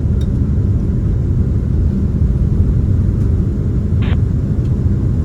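Steady low rumble of a Boeing 767-300ER airliner heard from inside the cabin as it rolls along the ground after landing, with a brief radio squelch burst about four seconds in.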